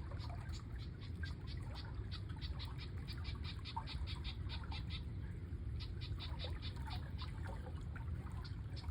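Outdoor nature ambience: a steady low rush of running water under a rapid series of high chirps, about five a second, that breaks off briefly midway, with scattered softer animal chirps.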